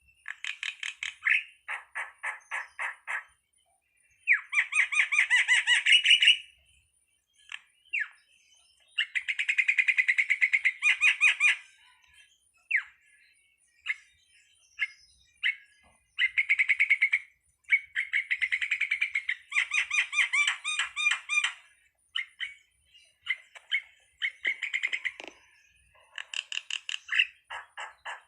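Jalak (starling) calling: bursts of rapid, repeated chattering notes lasting one to three seconds each, separated by short pauses.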